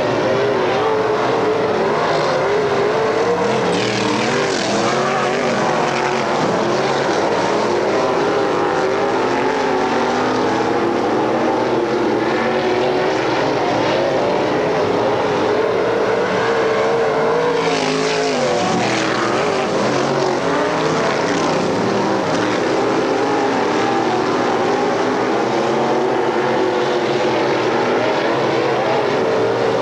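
Several racing engines running hard at once on a dirt oval, their pitch rising and falling as the cars go through the turns, with a louder surge of engine noise a little past halfway.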